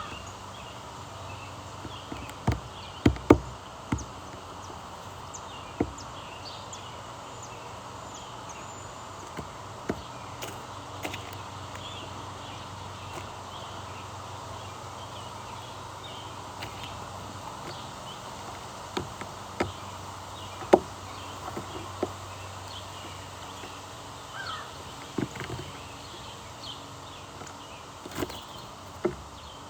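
Birds chirping off and on against a steady low hum, with a dozen or so sharp knocks or taps scattered through, the loudest about three seconds in and again around twenty seconds in.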